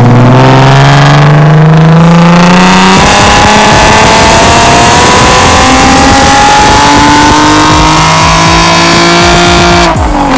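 2010 Camaro's rebuilt 3.6-litre V6 crate engine run hard on a chassis dyno, heard at the exhaust. The engine note climbs, drops once about three seconds in, then climbs slowly again for several seconds before falling off near the end.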